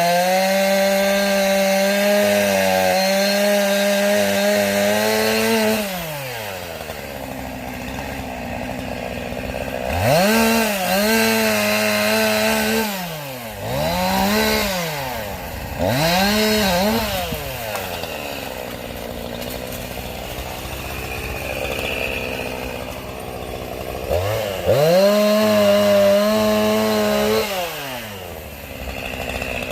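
Gasoline chainsaw cutting oak logs for firewood: it runs at full throttle for about six seconds, drops to idle, gives three short revs, idles again, and then runs at full throttle once more for a few seconds near the end.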